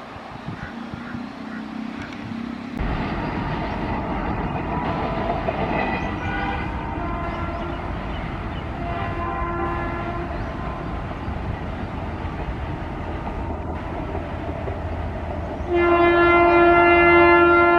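Indian Railways express train running through a station at speed without stopping: a steady rumble of the passing train, with fainter horn notes partway through and a long, loud locomotive horn starting about two seconds before the end.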